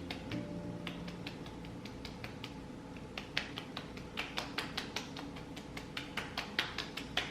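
Fingertips lightly tapping and patting the skin of the face, several quick soft taps a second in an uneven rhythm.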